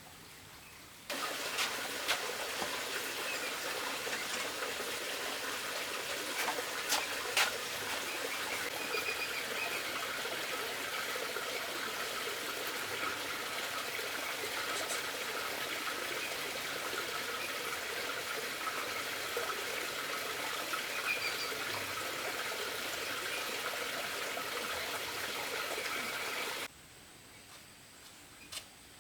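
Running water, a steady rushing trickle with a few light clicks, starting suddenly about a second in and cutting off near the end.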